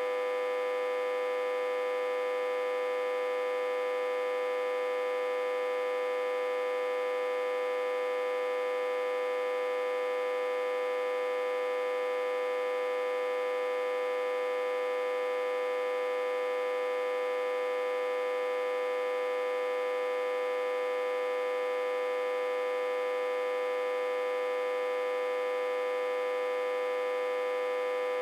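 Autotransformer humming steadily: one strong unwavering tone with many fainter overtones above it. It is driven at about 60–80 V input while reverse-connected to a step-down transformer.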